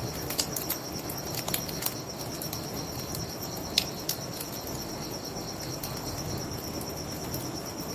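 Bonfire crackling with scattered sharp pops, the loudest a little before four seconds in, over a steady high chirring of crickets and a low rush of river water.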